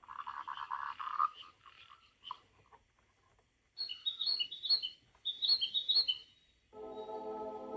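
HIAME white noise machine playing its nature sounds: a frog croaking at first, then a run of short, high bird chirps. A steady ambient music tone starts near the end.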